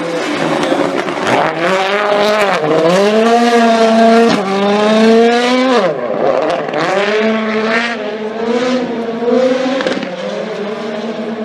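Rally car's turbocharged four-cylinder engine at full throttle. Its pitch dips briefly, climbs steadily for a few seconds, falls sharply as the throttle is lifted about six seconds in, then picks up again and runs on more steadily.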